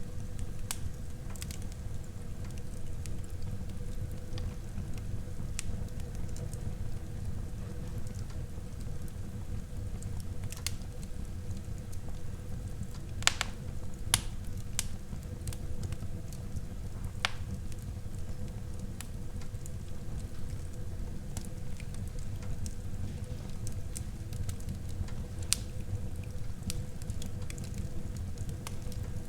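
Wood fire burning in a fireplace: a steady low rumble of flames with scattered sharp crackles and pops, a few louder pops about halfway through.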